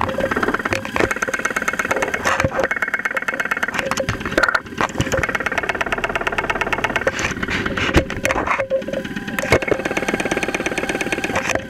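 2001 Saturn SL2's 1.9 L four-cylinder engine running, heard up close through a stethoscope microphone: a rapid, even clatter with occasional heavier knocks. This is the loud knock the engine developed after being run on very low oil.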